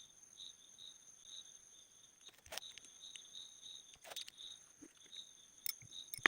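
A cricket chirping steadily in the background, about two chirps a second, with a few sharp clicks and taps in the second half.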